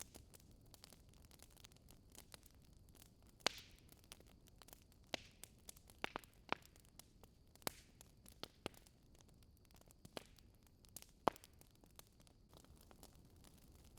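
Wood fire in a fireplace crackling softly: irregular sharp pops and snaps, about ten of them, over a faint steady hiss.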